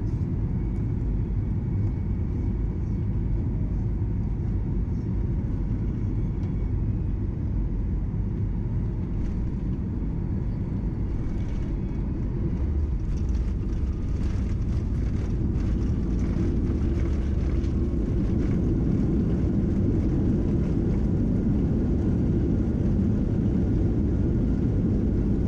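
Boeing 737-800 cabin noise during the approach and landing: a steady low rumble of engines and airflow that grows louder, with rattling, about halfway through.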